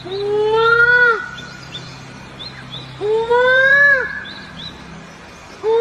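A bird giving long, drawn-out calls, each about a second, rising a little and dropping off at the end: two full calls, with a third starting near the end. Faint short high chirps come between them.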